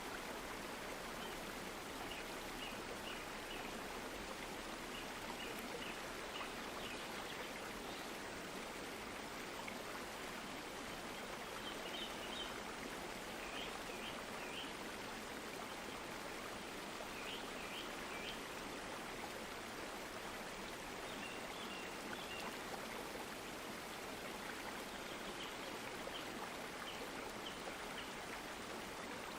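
A stream of running water making a steady, even rush. Short runs of high chirping calls come every few seconds.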